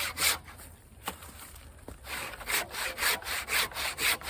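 Husky 20-inch fine-tooth hand saw cutting through a dried tree trunk, rasping back-and-forth strokes about three a second. The strokes stop briefly about half a second in, with a couple of light knocks, then pick up again about two seconds in.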